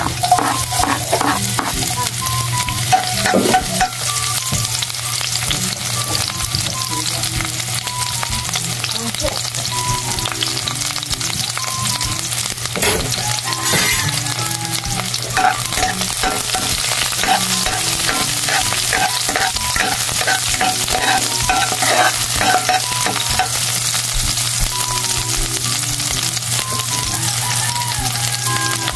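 Chopped onion and garlic sizzling and crackling in hot oil in a wide wok. The sizzle starts suddenly as they are tipped in from a cutting board, then runs on evenly.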